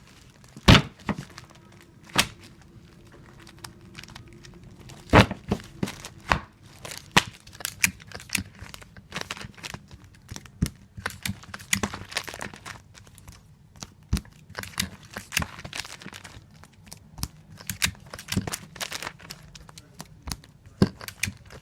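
Tape dispenser in repeated use while taping comic books, tape pulled off and cut, giving a long run of irregular sharp clicks and knocks. The loudest come about a second in and about five seconds in.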